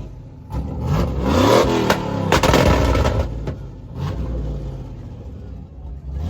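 Car engine revving hard, its pitch climbing about a second in, with a few sharp pops.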